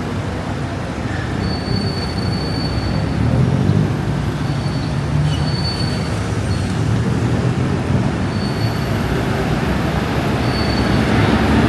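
Busy city street sound: a steady low rumble of traffic with thin, high-pitched squealing tones that come and go several times.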